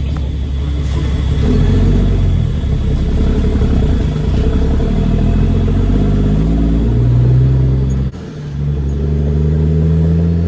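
Caterpillar C13 diesel of a straight-piped Kenworth W900B dump truck pulling under load, its pitch climbing as it accelerates. About eight seconds in it dips briefly for an upshift, then pulls again.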